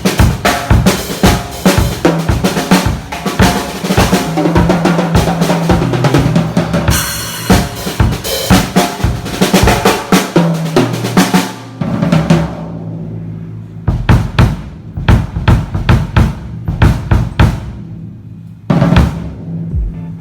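Mapex Tornado drum kit played: a busy groove of kick, snare and toms under washing cymbals, the cymbals ringing out a little past halfway. Then spaced single hits on the drums and bass drum, with another cymbal crash near the end.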